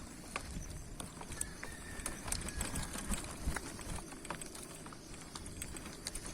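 Bicycle being ridden over a rough track: irregular clicks and rattles over a steady low rumble of tyres and wind on the microphone.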